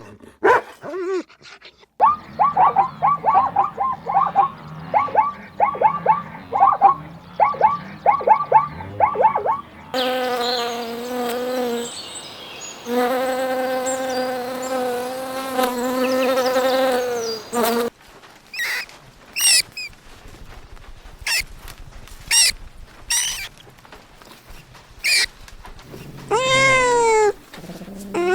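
A run of different animal sounds: rapid repeated chirping calls, then a steady droning buzz like a flying insect, then scattered sharp high chirps, and near the end a few arching calls.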